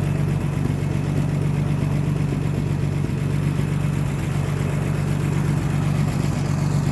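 Engine of a 1944 Clark Planeloader forklift idling steadily at a cold idle just after a cold start, running with a little choke on.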